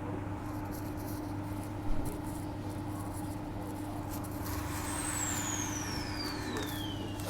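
Transperth A-series electric multiple unit running, heard from inside the train: a steady motor hum, a single thump about two seconds in, and from about five seconds an electric whine that falls steadily in pitch.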